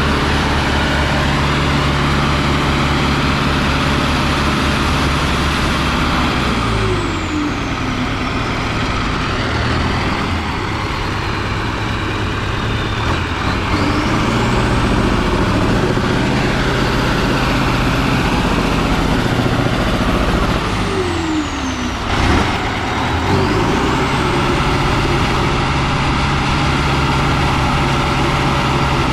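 Heavy off-road trial truck's engine working hard under load, its note dropping sharply about four times, as at gear changes, and climbing again each time, with a high whine that rises and falls. A sharp knock about two-thirds of the way in.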